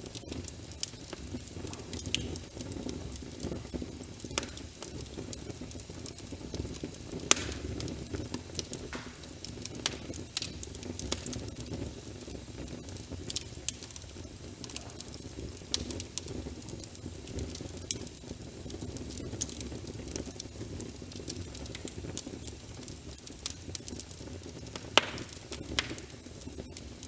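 Wood fire in a fireplace crackling, with frequent sharp pops and snaps, a few louder ones, over a steady low rumble mixed with rain.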